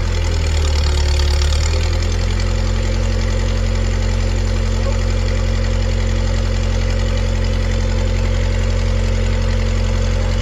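Engine running steadily, with a brief change in its low note about a second in.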